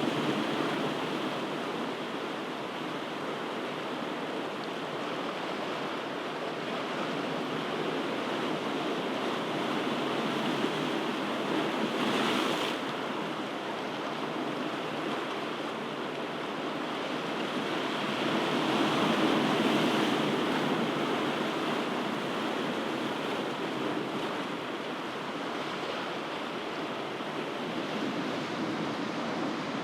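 Ocean waves breaking and washing on a shore in a continuous hiss, swelling and easing slowly, with one short brighter wash about twelve seconds in and a larger swell about two-thirds of the way through.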